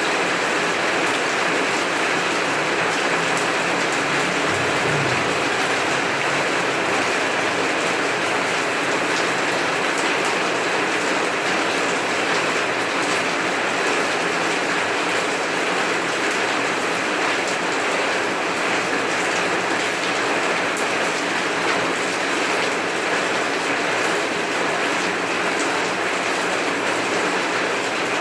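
Heavy rain falling steadily, an even hiss with fine drop ticks throughout.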